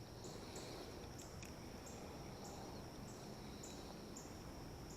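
Faint chorus of insects: a steady high-pitched buzz with short chirps repeating about twice a second, over a low hum of distant road traffic.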